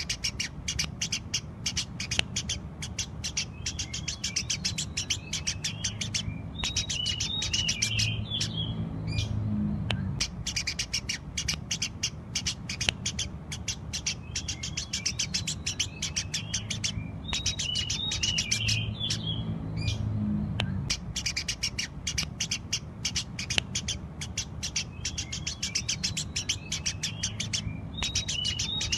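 Eurasian tree sparrow chirping rapidly and continuously in a long chattering bout, over a low hum. The pattern of chirps repeats about every ten seconds, as from a looped recording.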